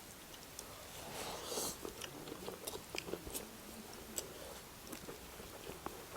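Mouth sounds of eating fried chicken legs and rice: chewing and biting, with many small scattered clicks and a brief crunch about a second and a half in.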